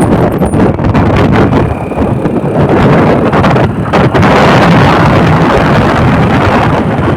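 Wind buffeting the microphone on a moving motorcycle, loud and rushing, with the vehicle running underneath.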